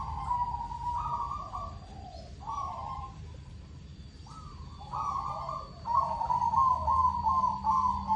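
Zebra dove (perkutut) cooing: phrases of rapid, stepped, quavering coo notes, with a lull in the middle and a denser run of notes from about five seconds in.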